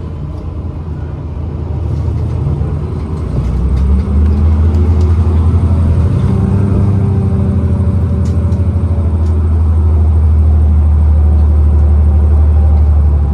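New Flyer XDE40 diesel-electric hybrid bus heard from inside, pulling away and accelerating. A low engine hum swells about four seconds in and holds, with faint rising tones from the drivetrain, the bus's weird winding sound.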